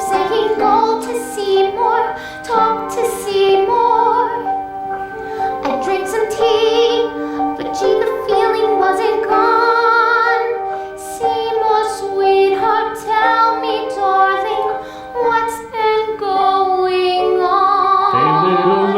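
Musical-theatre number: a woman's voice singing a slow song over an instrumental accompaniment with held chords.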